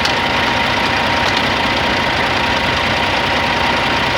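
Scania XT G450 truck's 13-litre inline-six diesel engine idling steadily.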